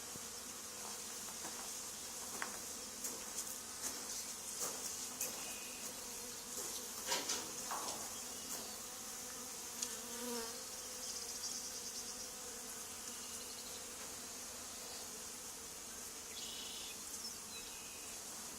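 Honey bee swarm buzzing around a hive box as the bees settle in: a steady hum, with a few light clicks in the first half.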